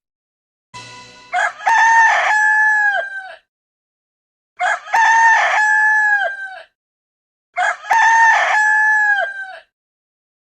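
Rooster (cockerel) crowing three times, each crow held steady and then dropping in pitch at the end.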